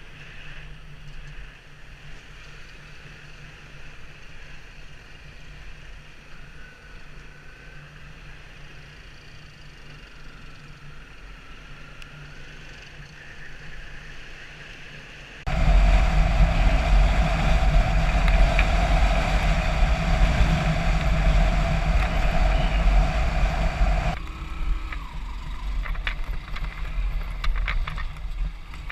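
A motor engine running steadily while travelling, at first fairly quiet with a low hum. About halfway in it abruptly becomes much louder, a steady drone with a strong mid-pitched tone and heavy low rumble, and eases somewhat near the end.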